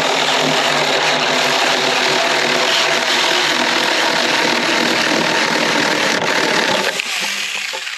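Saker cordless electric mini chainsaw cutting through a piece of wood under load, with a steady motor whine over the noise of the chain in the cut; the sound drops off near the end.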